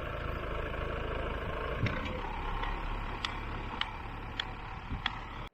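Tractor engine running steadily as it pulls a potato plow through the soil, with sharp clicks every half second or so. The sound cuts off abruptly at the end.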